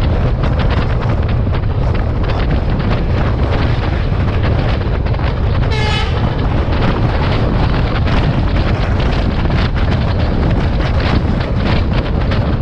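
Running noise of an S14 DEMU power set train at speed heard from outside the carriage window: a steady rumble with wind on the microphone and rapid wheel clicks. About six seconds in, a short train horn toot sounds as an oncoming train approaches on the next track, and its carriages then pass alongside.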